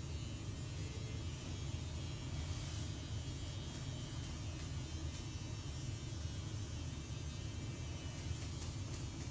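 Steady low rumble with a faint, even hiss above it.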